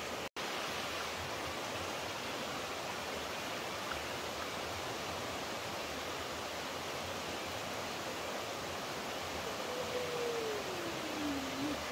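Steady rushing of flowing water from a stream or small waterfall, cutting out for an instant just after the start. Near the end, a single tone slides down in pitch over about two seconds.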